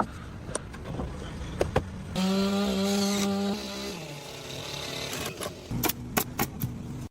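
Chainsaw running at a steady high pitch for about a second and a half, starting about two seconds in, then dropping slightly in pitch and dying away while it trims log ends. A few sharp knocks follow near the end.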